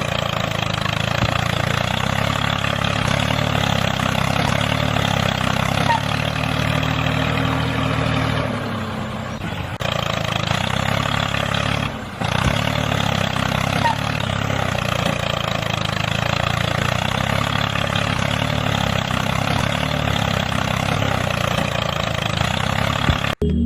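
An engine running steadily, with a low, even drone. It eases off briefly about nine seconds in and again near twelve seconds before carrying on, and cuts off abruptly near the end.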